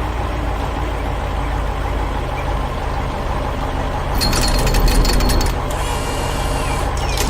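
Heavy construction machine sound effect: a steady, deep engine rumble, with a louder burst of rapid clattering from about four to five and a half seconds in.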